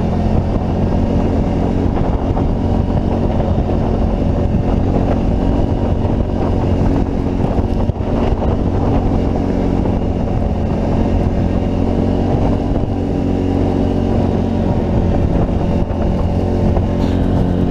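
Can-Am Outlander 650 ATV's V-twin engine running steadily under load as the quad pulls through deep powder snow, its pitch wavering only slightly with the throttle.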